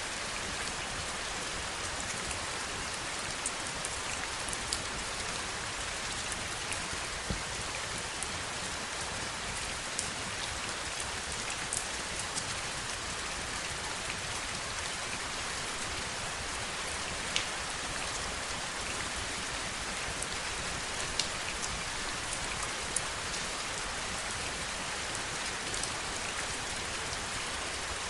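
Heavy rain falling steadily, an even hiss with scattered sharper ticks of individual drops.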